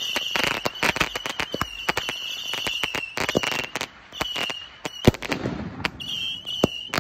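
Consumer fireworks cake firing shot after shot, with dense crackling pops and a high, steady whistle that comes and goes over them. One louder bang comes about five seconds in.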